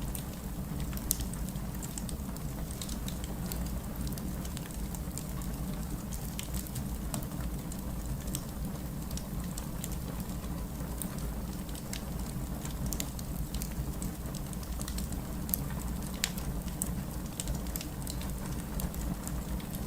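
Steady rain with a wood fire crackling over it: a constant low rush, dotted with sharp pops and snaps at irregular moments.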